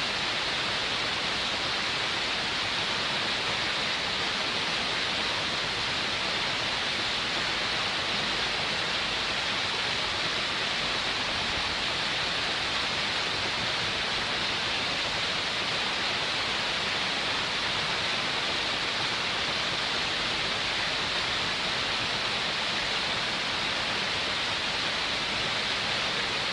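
Small waterfall: water falling and splashing in a steady, even rush with a strong hiss.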